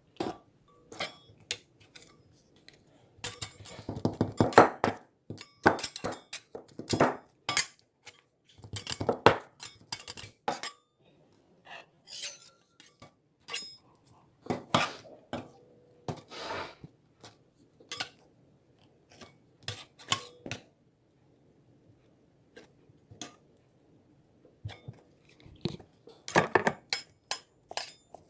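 Irregular clinks and knocks of hard objects, coming in clusters, with the busiest runs about four seconds in, around nine seconds in and near the end.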